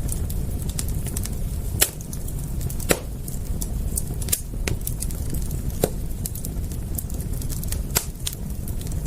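Wood fire crackling, with scattered small ticks and a handful of louder sharp pops over a steady low rumble.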